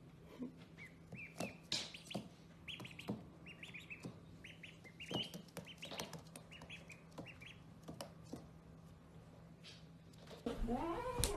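Small birds chirping: repeated short, high, rising chirps in quick little groups. Near the end a louder voice-like call comes in over them.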